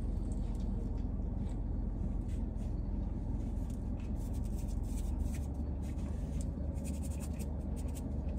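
A man chewing a mouthful of soft grilled chicken flatbread: faint, irregular mouth clicks and smacks that grow busier after about four and a half seconds. A steady low hum of the car cabin runs underneath.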